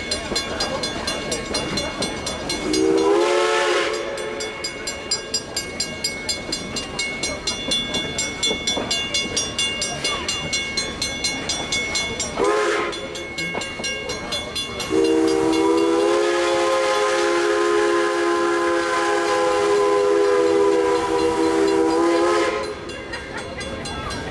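Train locomotive's chime warning signal sounded for a road crossing: a short blast, another short one, then a long blast of about seven seconds, several tones in a chord. Between the blasts the moving train makes a steady rhythmic beat of about two a second.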